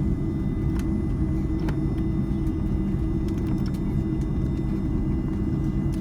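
Steady low rumble and hum inside the cabin of an Airbus A310-304 on the ground, its General Electric CF6-80C2 engines idling, with a thin steady whine above it and a few faint ticks.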